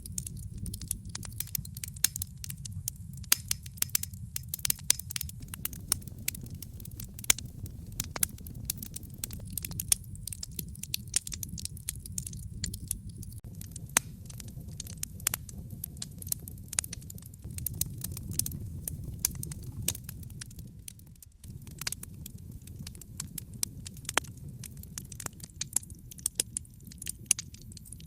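Wood fire crackling in a fireplace: a dense, irregular stream of sharp pops and snaps over a steady low rumble of flame. The rumble dips out briefly about three-quarters of the way through.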